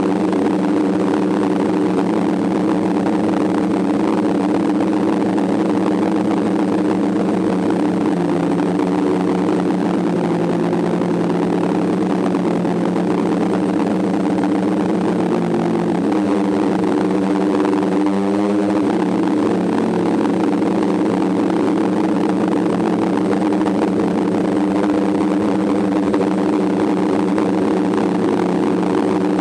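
DJI F550 hexacopter's electric motors and propellers droning steadily, as heard from the camera on board. The pitch shifts a few times as the throttle changes, with a brief wavering about eighteen seconds in.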